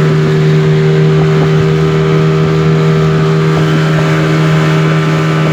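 Speedboat engine running at a steady, constant speed, loud and unchanging in pitch.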